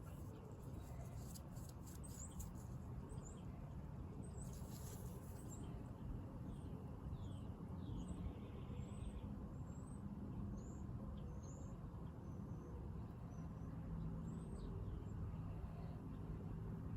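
Small birds chirping in short, scattered calls over a steady low rumble of wind on the microphone, with a few faint clicks about two seconds in.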